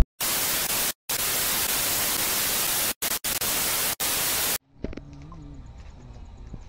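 Loud, even static hiss like a television's white noise, broken by a few abrupt gaps and cutting off suddenly about four and a half seconds in, then faint low background. It is an editing transition effect marking a short break.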